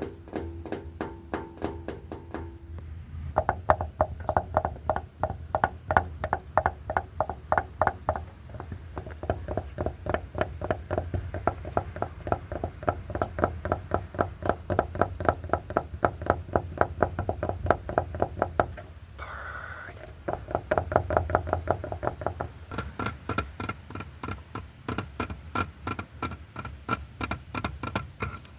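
Rapid, even tapping with a wooden bat on hard objects, several taps a second, each tap ringing with a short pitched tone. The pitch of the ring shifts a few times as the taps move to a different surface, with a brief break a little past the middle.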